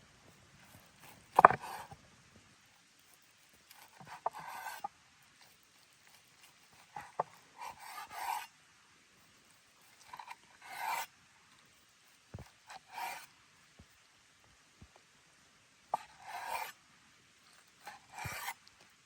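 Short crunching and tearing bursts of crisp-skinned roast chicken and crusty campfire bread being pulled apart and eaten, one every second or two. The sharpest crunch comes about a second and a half in.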